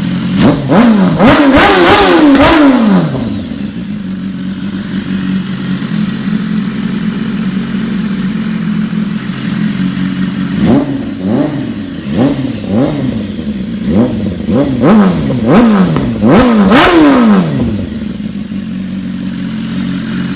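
BMW S1000RR inline-four engine running through an Austin Racing aftermarket exhaust, idling and blipped on the throttle. There are a few quick revs near the start, then a steady idle, then a run of about seven short revs in the second half, the last one the highest, before it drops back to idle.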